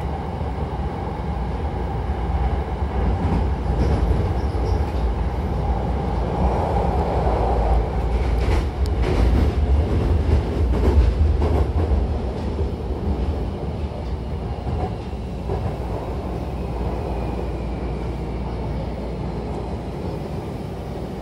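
Hankyu electric commuter train heard from inside the car, running with a steady low rumble of wheels on rail and a few clicks in the middle. Over the second half it gets quieter and a faint whine falls in pitch as the train slows into a station.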